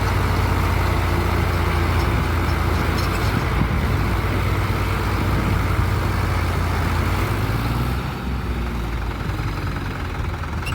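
Tractor diesel engine running loud and steady with a deep low throb, easing off a little about eight seconds in.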